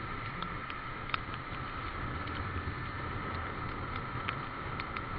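Motorcycle running steadily on the road, with a constant engine hum and road and wind noise. Scattered faint ticks sound over it.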